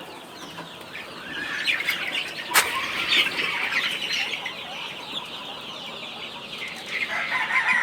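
Many chickens clucking and calling together in short overlapping calls, busiest from about a second and a half in, with one sharp knock near the middle.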